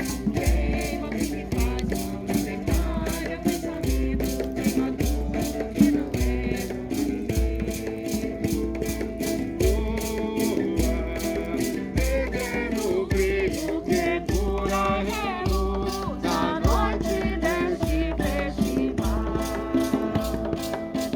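A Santo Daime hymn: maracas shaken in a steady, even rhythm over a deep pulse on the beat, with voices singing a melody that is clearest in the second half.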